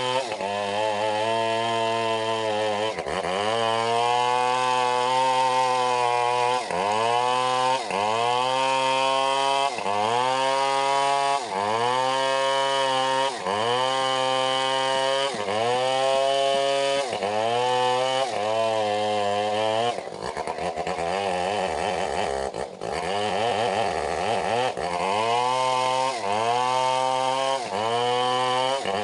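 Stihl 070 two-stroke chainsaw running hard through wood, its engine pitch dipping and recovering about every second as it loads in the cut. About two-thirds of the way through, the note drops lower and turns rough for a few seconds, then the dipping resumes.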